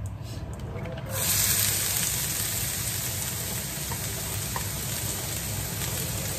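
Cooked rice hitting hot oil in a frying pan: a sudden sizzle starts about a second in and keeps up as a steady frying hiss while more rice is added.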